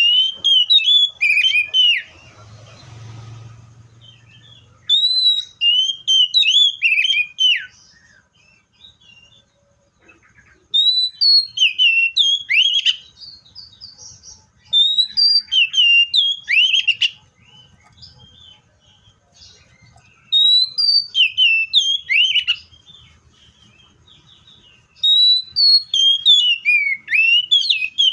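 Seychelles magpie-robin singing: six loud phrases of quick, sweeping whistled notes, each a couple of seconds long, with short pauses between them.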